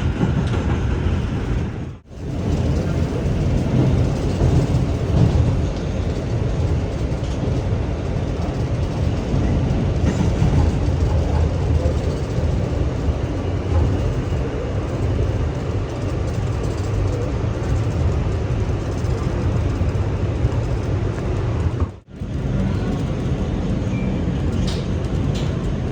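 Kawasaki R211A subway train running on rail: a steady, loud rumble of wheels and traction equipment. The sound cuts out briefly twice, about two seconds in and near the end.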